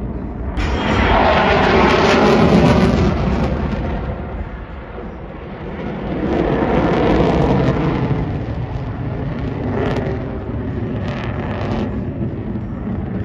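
F-35B Lightning II jet engine noise from the fighter flying its display: a swell starting sharply about half a second in, easing off around the fifth second, then swelling again and slowly fading.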